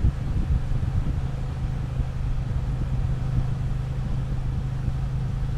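Triumph Bonneville T120 motorcycle's parallel-twin engine running at a steady speed under way, a constant low drone over road and wind rush.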